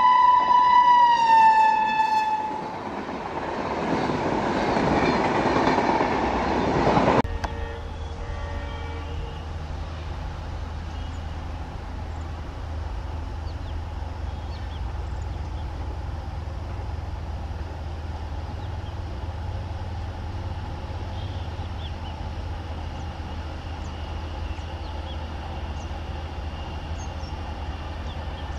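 Electric locomotive's horn sounding one long note that drops in pitch after about two seconds. It is followed by the rush of a passing train, which grows louder and then cuts off suddenly. A steady low rumble fills the rest.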